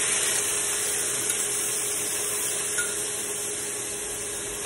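Chopped vegetables for a sofrito sizzling steadily in hot oil in a pan, freshly added; the sizzle eases slowly.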